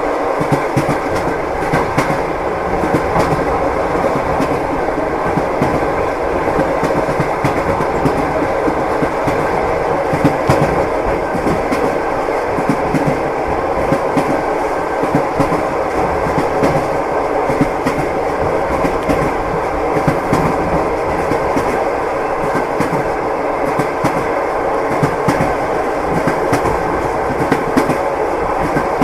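A moving train: the steady rumble of a rolling carriage with the clickety-clack of its wheels knocking over rail joints again and again.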